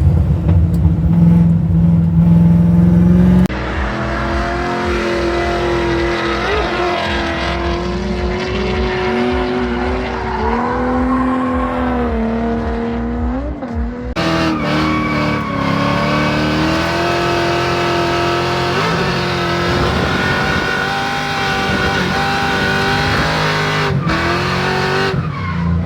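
Drift car engine running hard with its pitch rising and falling as it revs through a drift run. It starts with a loud steady drone, and the sound changes abruptly about three and a half seconds in.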